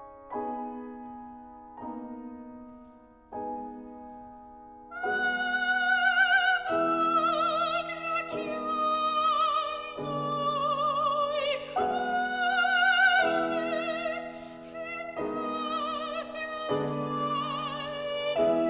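Classical art song for soprano and piano. The piano plays a few sustained chords alone, and about five seconds in a soprano enters, singing with wide vibrato over the piano accompaniment.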